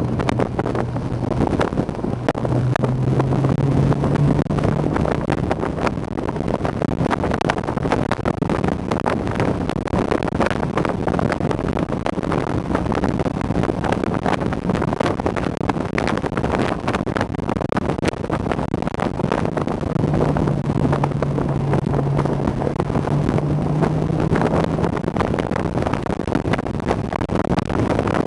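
Honda S2000's four-cylinder engine running under way, with wind rushing over the open cockpit drowning much of it. The engine note climbs twice, near the start and again about two-thirds of the way through.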